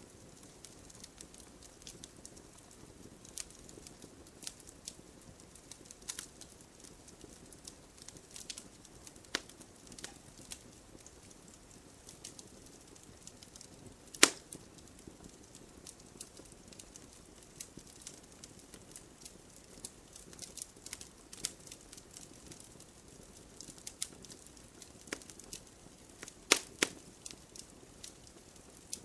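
Wood fire crackling: irregular sharp pops and snaps over a soft steady hiss, with one loud pop about halfway through and a quick cluster of pops near the end.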